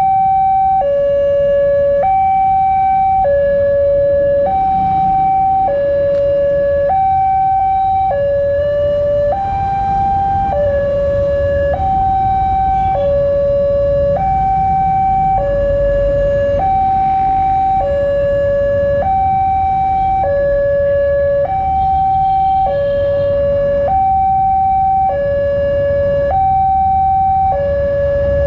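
Railway level-crossing electronic warning alarm sounding continuously, alternating between a higher and a lower tone about once a second each, over a steady low rumble.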